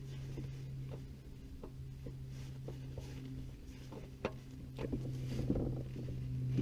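A steady low hum with light clicks and knocks scattered through it, coming more often in the second half.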